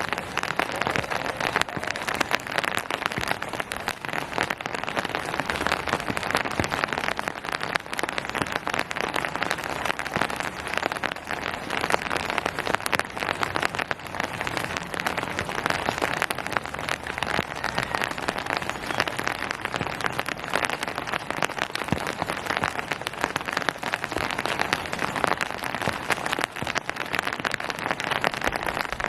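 Steady rain falling on surfaces: a dense, even patter of countless small drop impacts with no let-up.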